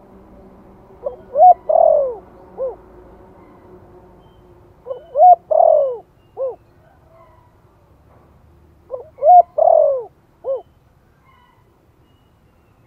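Spotted dove singing its cooing phrase three times, about four seconds apart: each phrase a few short coos, a longer falling coo and a short last note.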